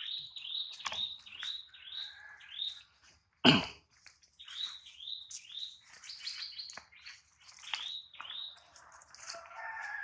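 Birds chirping over and over in short, quick falling notes, with one loud thump about three and a half seconds in.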